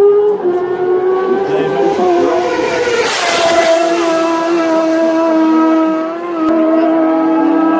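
Superbike racing motorcycles running flat out at high revs, with one passing close about three seconds in in a rush of noise, its note dropping slightly as it goes by.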